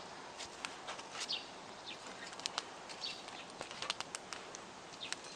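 Wood campfire crackling, with scattered sharp pops and snaps over a low steady hiss. Short bird chirps sound a few times in the background.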